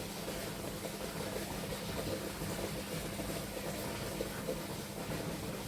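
Steady background hiss with a faint low hum throughout and no distinct events.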